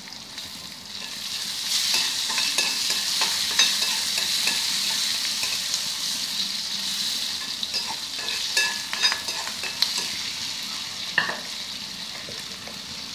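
Onions and freshly added tomatoes sizzling in hot oil in a metal kadai, stirred with a metal spatula that scrapes and clicks against the pan. The sizzle swells about a second or two in, then slowly eases.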